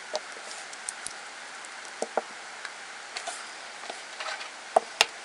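Scattered light clicks and taps from small objects being handled, irregular, with the two sharpest clicks close together near the end, over a steady background hiss.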